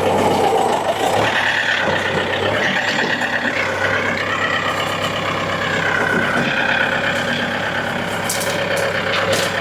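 A 40-horsepower tractor's engine running steadily under load, with a higher whine that rises and falls as it works.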